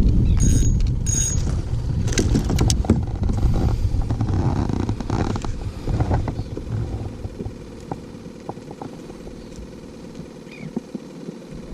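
A loud low rumble, like an engine or passing boat, fading away over several seconds, with two short high electronic beeps in the first second and scattered light clicks.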